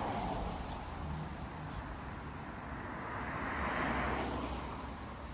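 Street traffic: a passing car's tyre noise swells and fades, with one vehicle going by about four seconds in.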